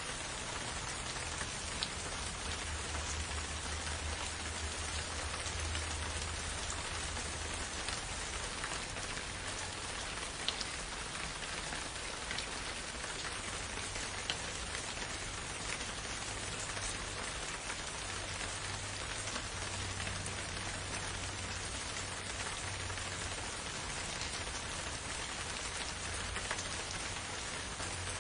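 Steady rain falling, an even continuous hiss with a few sharper single drop ticks scattered through it.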